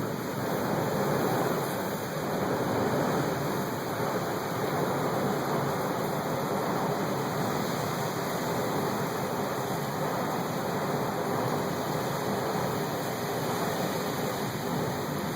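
Heavy rain pouring down in a squall wind, a steady dense rush of water and wind with no breaks.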